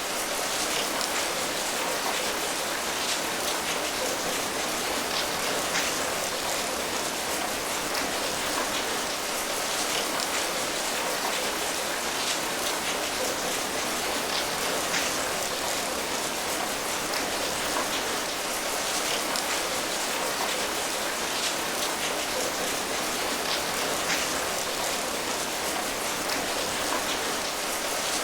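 Steady rain falling, a dense even hiss sprinkled with the patter of individual drops striking a surface.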